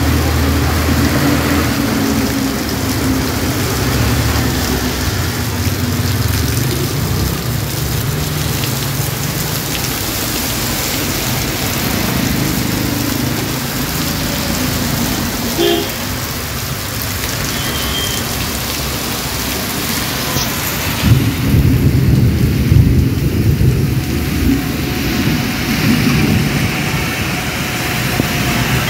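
Heavy rain pouring steadily onto a flooded street, with vehicles passing through the water. Low rumbles of thunder are heard, the strongest a little over two thirds of the way through.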